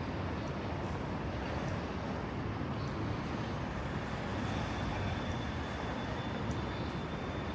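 Steady outdoor city ambience: a continuous low rumble of road traffic, with a faint high steady tone joining about four seconds in.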